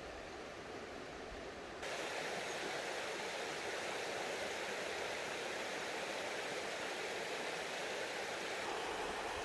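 Mountain stream water rushing over rocks, a steady rushing sound that jumps suddenly louder and brighter about two seconds in.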